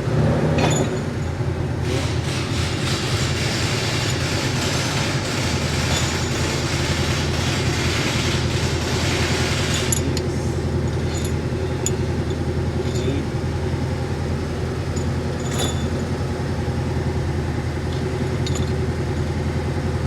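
Steady low machine hum, like a motor or engine running, with a stretch of hissing noise from about 2 to 10 seconds in and a few sharp metallic clicks during workshop tool work.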